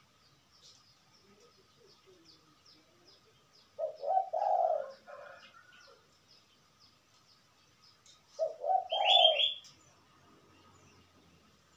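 A bird cooing in two low phrases, each a couple of short notes followed by a longer one, with faint small-bird chirps between them and a brief higher chirping at the end of the second phrase.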